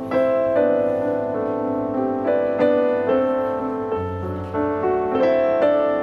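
Gentle background piano music, notes struck every half second or so.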